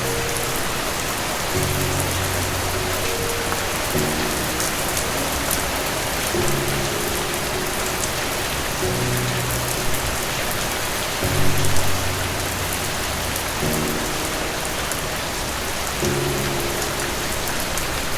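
Steady rain falling on a hard surface, with soft, low, sustained music chords underneath that change every two seconds or so. The sound briefly swells louder about eleven seconds in.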